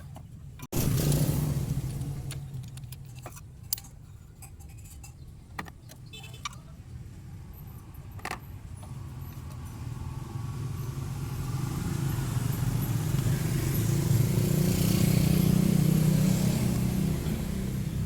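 A car engine running with a steady low rumble, starting abruptly about a second in and growing louder over the last several seconds.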